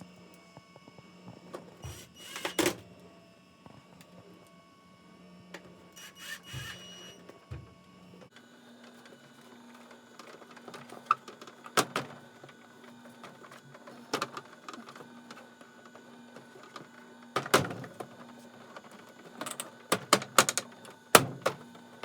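Plastic housing panels of a dehumidifier being handled and fitted back on: scattered sharp clicks and knocks as parts are pushed and snapped into place, several in quick succession near the end.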